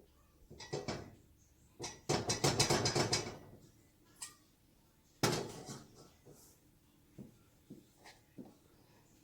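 Metal kitchenware clattering and knocking as it is handled: a rattling clatter about two seconds in, a sharp knock with a short ring-out about five seconds in, then a few light taps.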